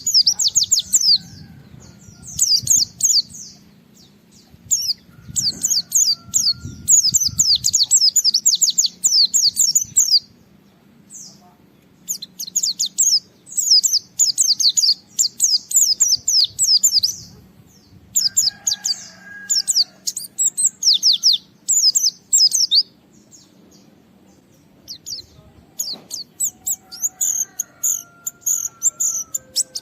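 White-eye (pleci) in full song, rapid high twittering in bursts of a few seconds with short pauses between them.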